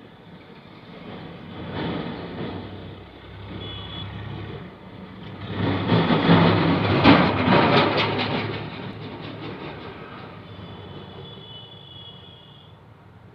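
A vehicle passing by: the noise swells to a peak about six to eight seconds in, then fades away. A thin high tone sounds briefly before the peak and again for a couple of seconds near the end.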